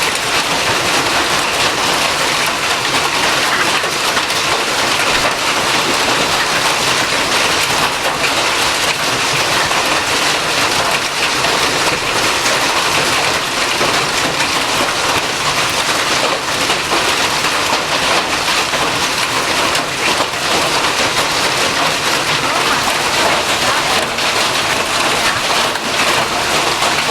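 Hail pelting down in a dense, steady clatter of countless small impacts.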